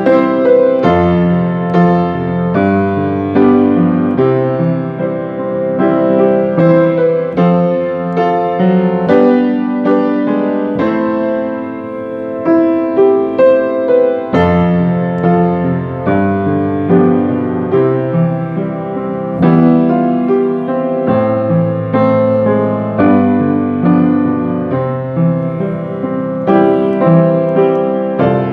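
Solo piano playing a slow, gentle hymn accompaniment: a steady stream of single notes over held chords.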